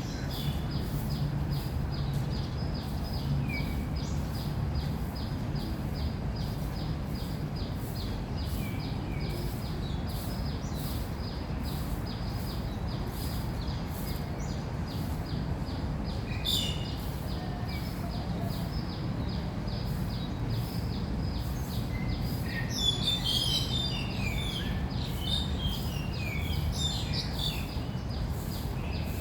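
Park birds chirping in short scattered calls, busiest near the end, over a steady low rumble of background noise and an even high-pitched pulsing about two or three times a second.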